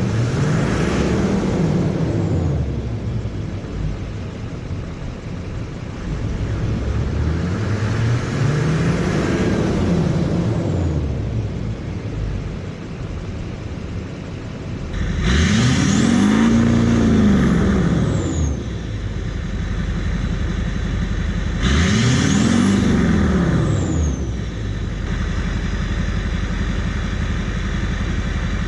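LBZ Duramax 6.6-litre V8 turbodiesel revved four times through a straight-piped 3.5-inch exhaust. Each rev climbs and falls back to idle over a couple of seconds, with a faint high whistle rising and falling alongside; the third and fourth revs are the strongest.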